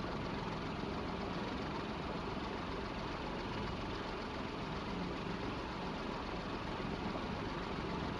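Evergo Industrial ceiling fan with a cast iron motor running steadily on its high setting: an even rush of air from the blades, with no breaks or changes.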